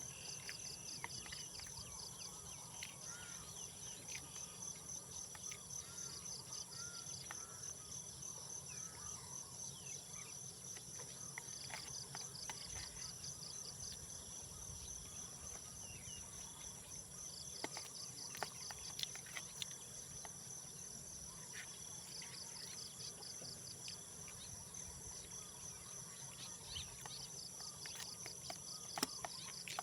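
Night-time insect chorus: a steady high-pitched shrill hum, with a short pulsed trill that comes back every five seconds or so. A few faint clicks are scattered through it.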